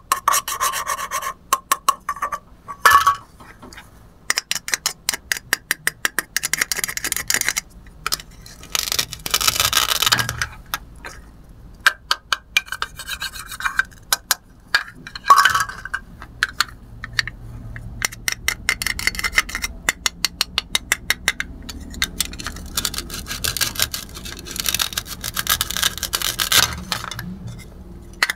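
Velcro tearing several times, each tear lasting about a second, as halves of plastic toy fruit joined by Velcro pads are pulled apart, amid many sharp clicks and taps of the hard plastic pieces being handled and set down.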